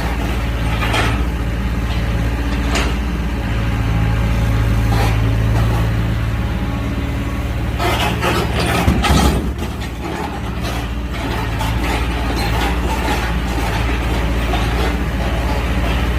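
Excavator's diesel engine running steadily, with scattered knocks and clatter from the machine's work and a louder burst of clattering about nine seconds in.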